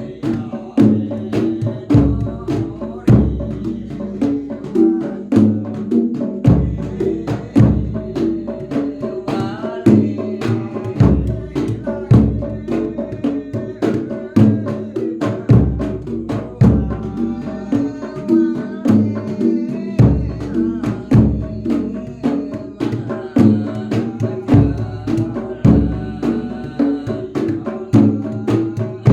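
Javanese folk percussion ensemble playing, led by the jedor bass drum with a deep beat about once a second. Quicker drum and wood-block-like strikes fall between the beats, over repeating pitched metallic tones.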